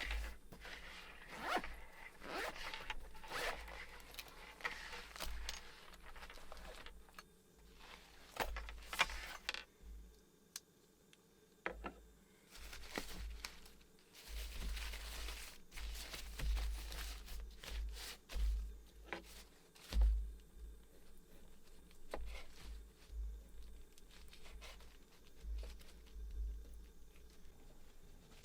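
Close handling noises: repeated scraping and zipping strokes with scattered clicks, rustling and low thumps, coming and going for the whole stretch.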